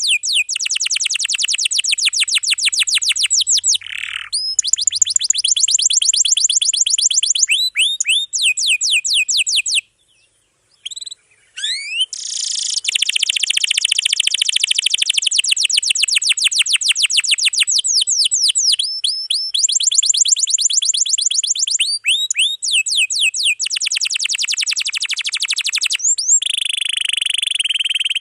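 Domestic canary singing long, rapid trills (rolls) of repeated high notes, one phrase running into the next, with a pause of about a second and a half a little before the middle.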